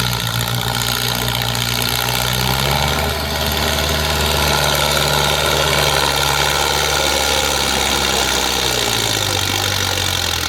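Heavy diesel engine running loud and steady, working a stuck loaded trolley; its pitch rises about two and a half seconds in and drops back near the end.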